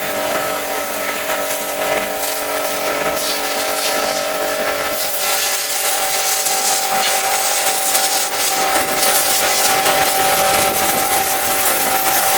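Pressure washer spraying: the water jet hisses over the steady whine of the washer's pump motor, and the hiss grows stronger about five seconds in.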